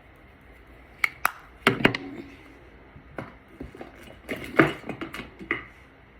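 Makeup products and their containers being handled and set down: two quick sharp clicks about a second in, a heavier knock near two seconds, then a run of clicks and taps from about four to five and a half seconds.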